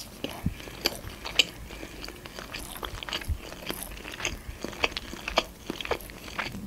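A person chewing a mouthful of food with the mouth close to the microphone: a run of irregular clicks and smacks, several a second.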